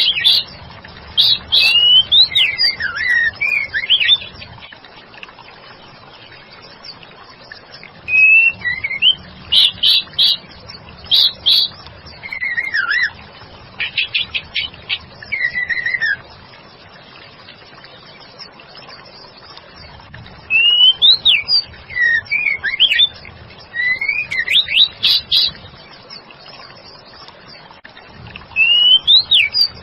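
Female white-rumped shama singing in bouts of quick, clear whistled phrases that slide up and down, with pauses of a few seconds between bouts.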